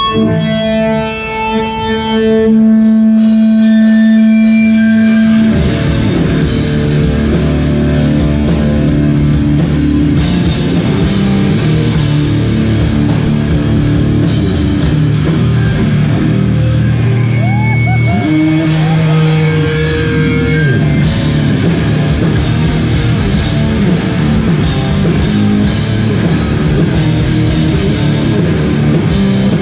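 Hardcore band playing live through a PA: amplified electric guitars, bass and drums. Held guitar notes ring on their own for the first five seconds or so, then the full band comes in.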